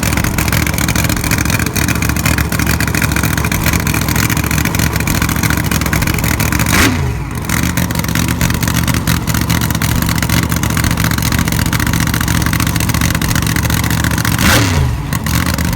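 A drag racing car's engine running loudly at idle, revved twice, about seven seconds in and again near the end, its pitch dropping back after each rev.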